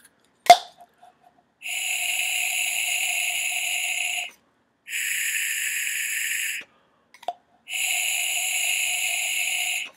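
A homemade mouth-blown white-noise maker, built from the inner parts of a pump dispenser and fitted with a straw, blown three times in long even breaths, each giving a steady hiss with a faint whistling tone beneath it. A sharp click comes about half a second in, louder than the hisses.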